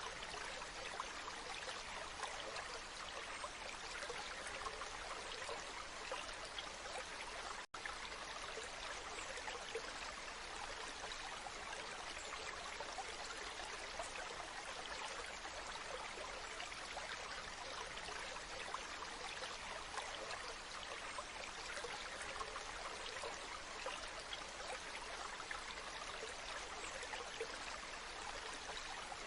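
Waterfall water rushing and splashing steadily, with a brief cut to silence for an instant about eight seconds in.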